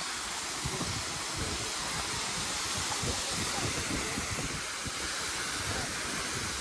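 Steady rushing roar of Khandadhar waterfall, an even hiss of falling water with no breaks.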